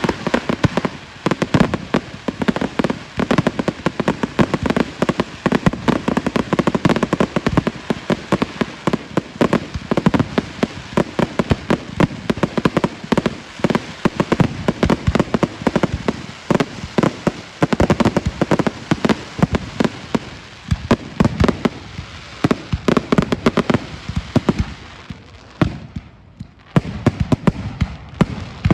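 Fireworks display: a rapid, continuous barrage of bangs and crackling reports, thinning out briefly near the end before a few more bangs.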